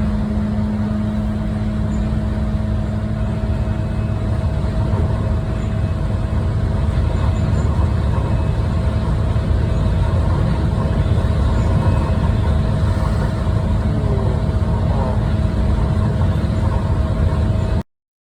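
Vehicle engine idling: a steady hum with a constant pitch over a low rumble, cutting off abruptly near the end.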